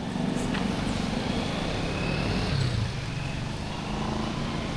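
City street traffic: a motor vehicle's engine running close by, loudest a little past the middle.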